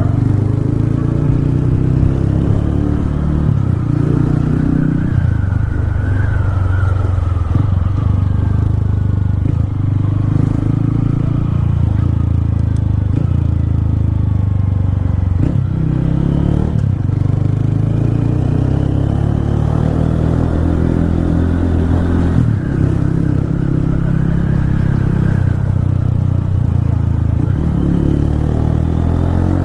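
Honda CG Titan 160's single-cylinder four-stroke engine running while riding, its pitch rising and falling with the throttle and gear changes.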